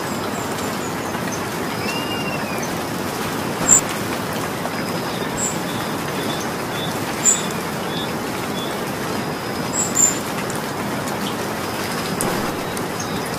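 Steady rain falling, with birds calling through it: a short rising-and-falling whistle about two seconds in and several sharp, high chirps.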